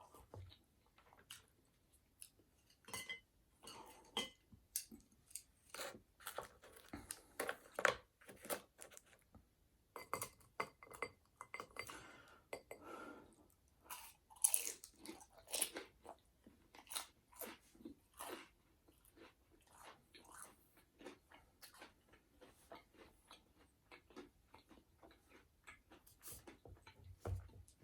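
A person chewing food close to the microphone, with a steady run of irregular wet smacks and small clicks of the mouth.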